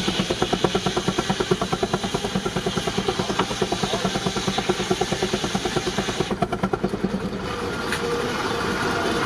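19-65 Uniflow Baker steam traction engine working under belt load, its exhaust beating fast and even at about eight beats a second, with a steady high hiss over it. The hiss cuts off about six seconds in, and the beats fade a second later into a steadier running noise.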